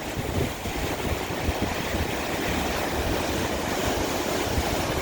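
Lake Michigan surf driven by a strong onshore wind: waves breaking and washing up against the shore in a steady rush, with wind rumbling on the microphone. The surf swells slightly toward the end.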